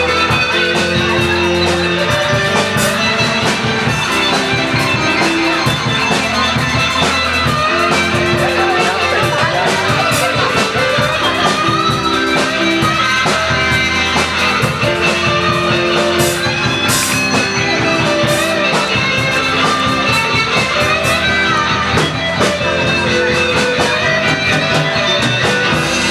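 Live rock band playing a passage with no singing, guitar to the fore over a steady beat.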